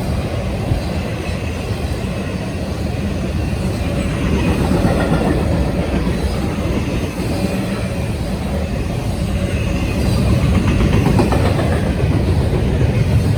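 A train passing close by, its wheels running over the rails with a steady, loud rumble that swells a little twice.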